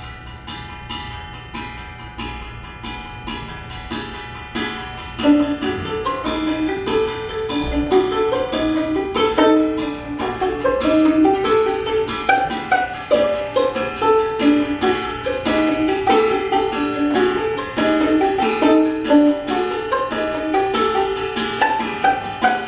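Live improvised ensemble music in a Korean-traditional contemporary style: a fast, even patter of small clicks under sustained high tones. About five seconds in, a louder melody of short, stepping notes enters and carries on above it.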